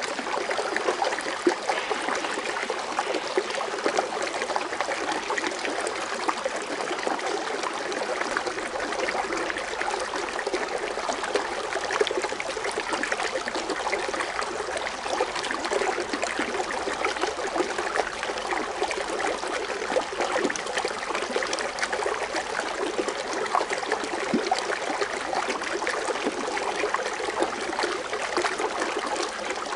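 Foaming water fountain splashing and trickling steadily, an even bubbling rush of water.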